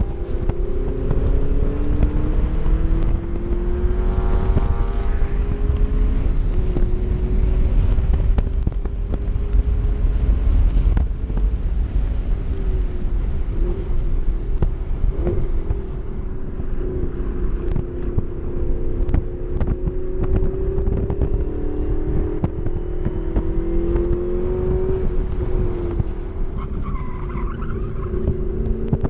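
Subaru WRX's EJ207 turbocharged flat-four engine under hard acceleration on a race track. Its note climbs in long sweeps through the gears over a heavy low rumble, with some wind noise.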